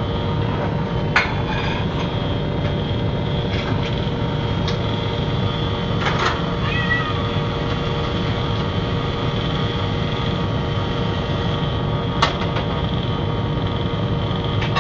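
Cat meowing briefly, a few short calls about six seconds in, over a steady low rumble and hum. Two sharp clicks, about a second in and near the end.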